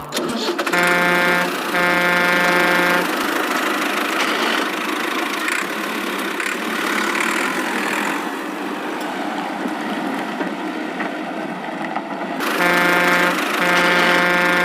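Vehicle horn honking twice, a short honk then a longer one, and the same pair again near the end, over a steady engine rumble.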